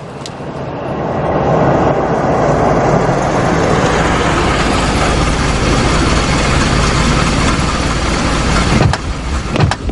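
Car engines running as cars pull up and stop, rising over the first second or two and then holding steady with a deep hum. A few sharp clicks near the end.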